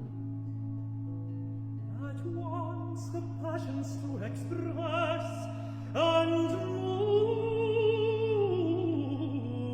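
A countertenor sings a Baroque air over a sustained continuo bass note. The voice enters about two seconds in with quick ornamented runs, then holds one long note with vibrato near the end.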